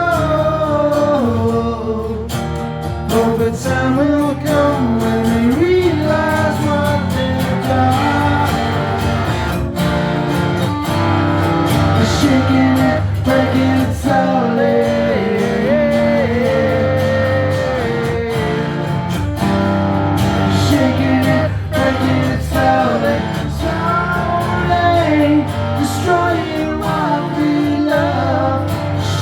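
Live band music: a man singing a melody over acoustic guitar, bass and percussion.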